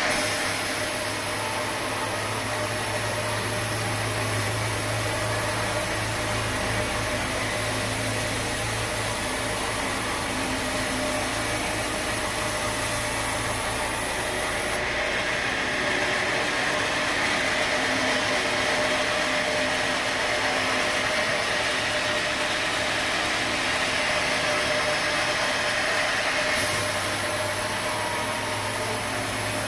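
Sawmill machinery running steadily: an engine hum under a constant mechanical noise. The sound changes abruptly about halfway through and again near the end.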